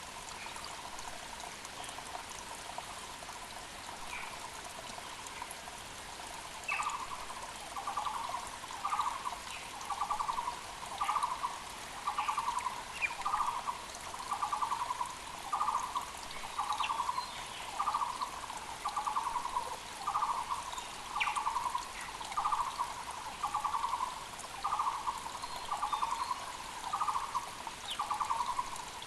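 Taiwan barbet (Muller's barbet) calling a long, even series of repeated low notes, about one and a half a second, starting about seven seconds in. Under it a mountain creek runs steadily, and other birds give brief higher chirps.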